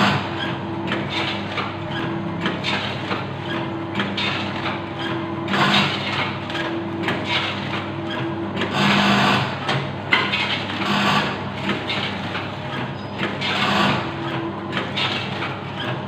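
Snack packaging machine running: a steady motor hum under continual clicking and rattling, with several louder rushes of noise.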